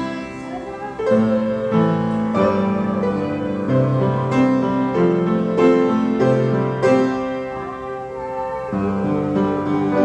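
Piano playing a slow melody over held chords, with a new chord struck every second or so.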